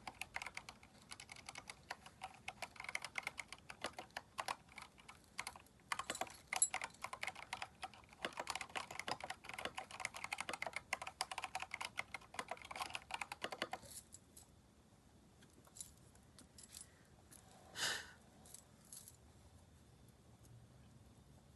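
Fast, continuous typing on a Keychron K4 mechanical keyboard fitted with aftermarket keycaps, with rapid key clacks that stop about two-thirds of the way through. A few scattered keystrokes and one louder knock follow.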